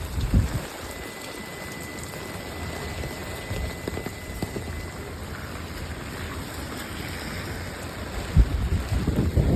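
Steady rain with strong wind, gusts buffeting the microphone, a low rumbling that grows stronger near the end.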